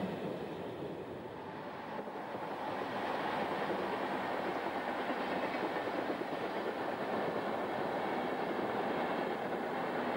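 Intercity passenger train rolling over a railway bridge: a steady rumble of wheels on rails with a faint clickety-clack, softer for the first two seconds and then even.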